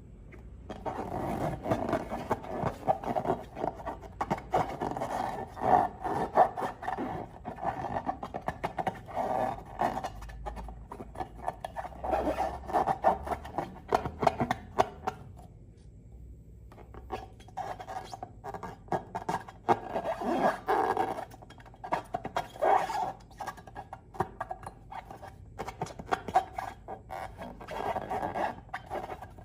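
Slime being worked by hand, with a run of sticky, wet clicks and squishes. The clicks pause briefly about halfway through, then start again.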